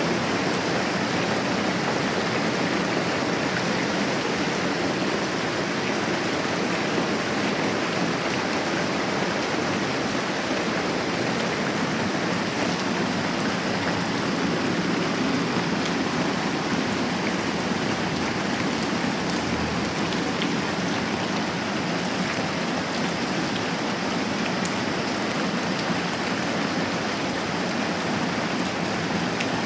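Moderate rain falling steadily, an even hiss with no pauses or changes.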